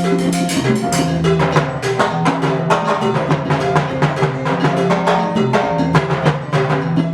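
Percussion ensemble playing a fast, dense rhythm of drum and wood-like strokes over held low pitched notes.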